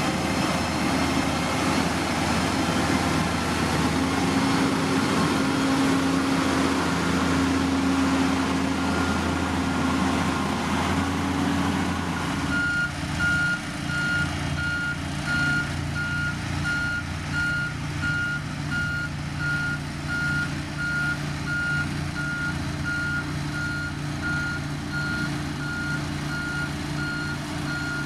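Diesel construction machinery running steadily. About halfway through the sound changes abruptly, and a heavy machine's reversing alarm begins beeping at an even pace over its running engine.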